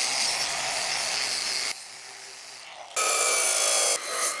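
Power tool cutting steel angle iron into tabs, a loud harsh cutting noise. It drops quieter about two seconds in, then comes back loud with a steady high whine about three seconds in.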